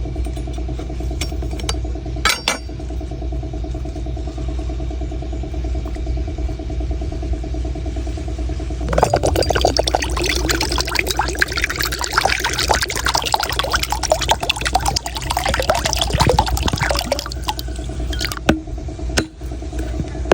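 Liquid pouring for about eight seconds, starting around nine seconds in, fitting coconut water being poured out of a cut coconut. A steady motor hum runs underneath, and there is a single sharp knock about two seconds in.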